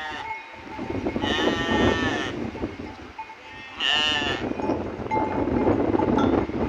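Sheep and goats bleating: three pitched bleats, one at the start, a long one about a second in, and a short one about four seconds in, over a rough rushing noise that grows louder toward the end.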